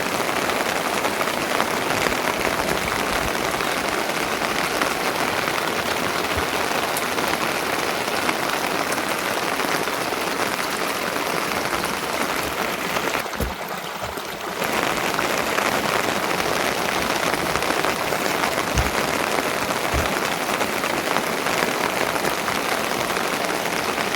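Steady rain falling, with a short quieter patch a little past halfway.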